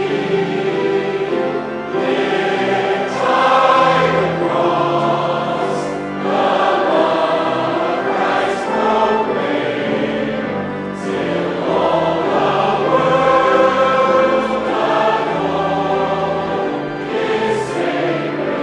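Church choir singing in sustained chords, phrase after phrase with short breaks between.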